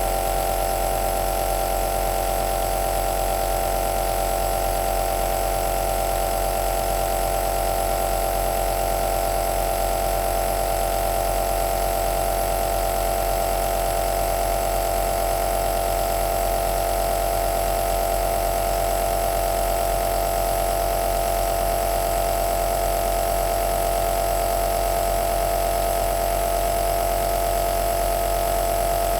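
Compressor nebulizer running continuously: a steady motor hum with a strong mid-pitched tone and an even hiss above it, never changing.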